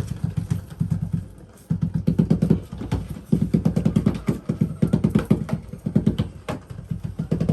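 Motorized self-rolling toy ball running across a hard floor, its motor and shell rattling in quick, even strokes, in runs with brief stops.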